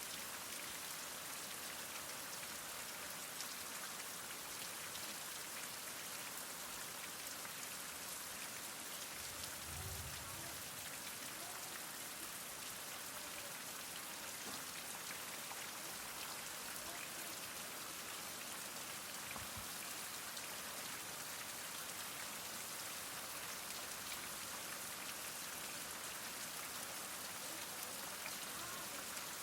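Heavy rain falling steadily, an even hiss of drops with a faint low thud about a third of the way in.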